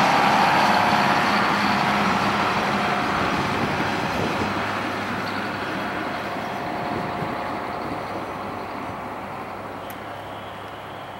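Wheels of a freight train's last flatcars rolling over steel rails, the rumble and rail noise fading steadily as the train pulls away.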